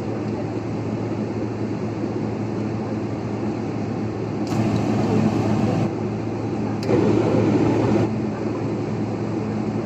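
Steady airliner cabin noise with a low hum, from the idling jet engines and the cabin air system while the plane waits for takeoff. Two brief louder rushes of noise come about halfway through and again about a second later.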